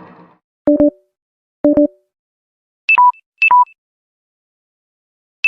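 Electronic phone alert tone: two short low double beeps about a second apart, then two quick two-tone beeps that step from high to low.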